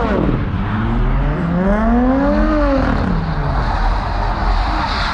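A car engine revs up and falls back over about two seconds, followed by a steady rushing noise from the cars.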